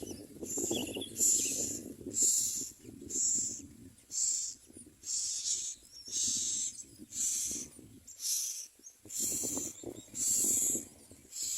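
Common myna nestlings giving harsh, hissing begging calls, about one rasp a second, with rustling from the nest.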